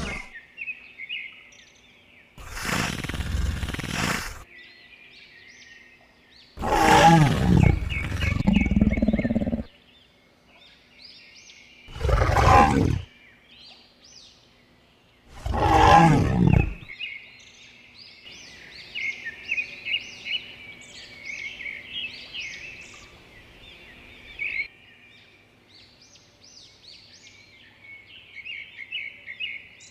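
Tiger roaring and growling in four separate loud bursts, each one to three seconds long, all within the first seventeen seconds. Birds chirp high and continuously in the background.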